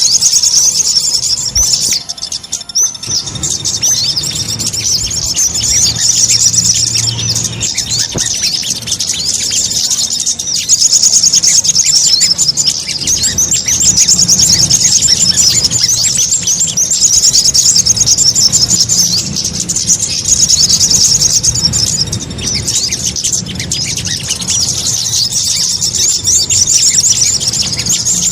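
Sogon sunbird lure-call recording: dense, rapid, high-pitched chirping and twittering, almost unbroken, thinning briefly about two seconds in and again some twenty-two seconds in, over a low steady hum.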